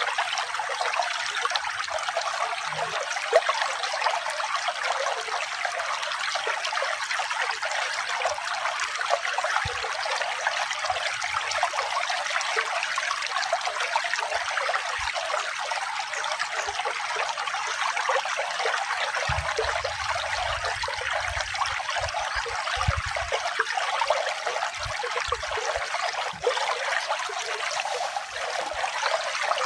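Running water trickling and splashing steadily, as from a small stream or brook, with an even, unbroken flow.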